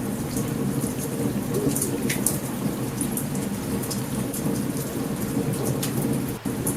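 Heavy rain falling steadily under a continuous low rumble of thunder, with the sharp, irregular pops and crackles of a campfire burning.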